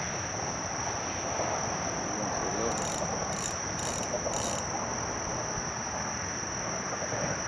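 Night insect chorus of crickets: a steady high trill, with four short high-pitched calls from another insect a few seconds in.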